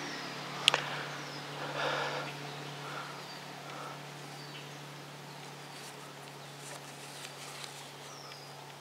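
Quiet outdoor ambience with a few short, high, falling bird chirps scattered throughout over a steady low hum. A sharp click comes just under a second in, and a brief rustle about two seconds in, as the hunter handles his climbing rope.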